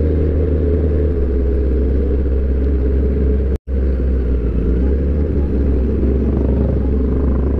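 Kawasaki ZX-10R's inline-four engine running steadily at low revs while the bike rolls slowly, a low, even engine note. The sound cuts out completely for an instant about halfway through.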